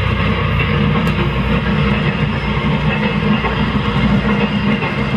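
Steady running noise of a freight train rolling past with its container wagons, an even rumble without breaks.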